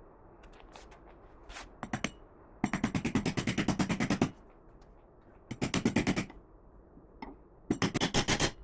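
Three bursts of rapid mechanical hammering, about ten sharp impacts a second, the longest lasting about a second and a half, with a few single clicks before them.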